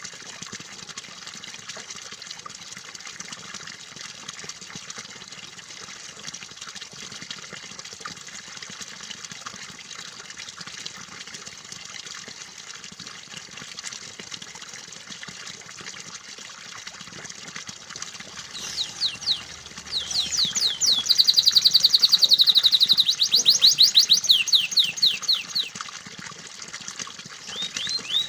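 Steady trickling, flowing water, then about 18 seconds in a canary starts singing over it in fast, rapidly repeated trills. The song is loudest in the middle of that stretch, pauses briefly, and a new trill starts near the end.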